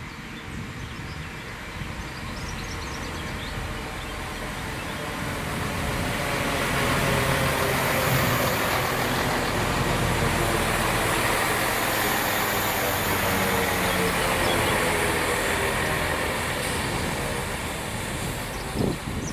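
Class 165 diesel multiple unit passing close by: diesel engine running and wheels on the rails, growing louder as it comes out of the tunnel, loudest as it goes past, then easing off as it runs on along the platform. A short knock near the end.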